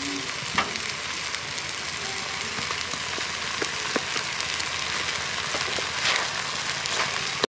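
Food frying in a hot pan, a steady sizzle with a few sharp pops.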